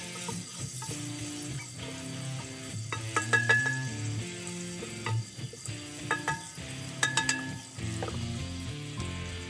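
Sliced chillies and shallots sizzling in hot oil in a metal pot, stirred with a spoon. In the middle stretch the spoon strikes the pot wall several times, each clink ringing briefly.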